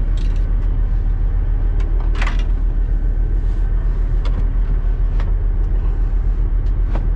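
Steady low drone of a party boat's running machinery, with a few short light clicks and knocks on top.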